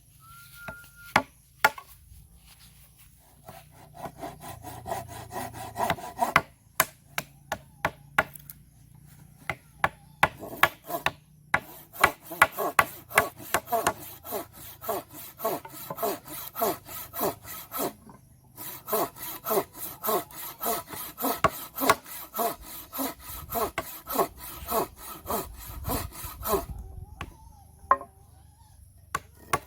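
Handsaw cutting through wood in quick, even back-and-forth strokes: a few short bursts in the first third, then two long runs of steady sawing with a brief pause between them.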